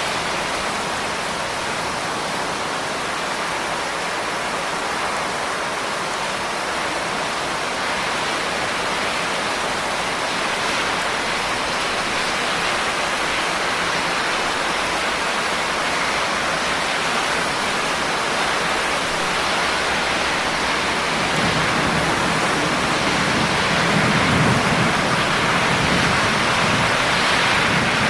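Steady rain falling, a dense even hiss. A low rumble swells in about three-quarters of the way through, loudest a few seconds later, and carries on under the rain.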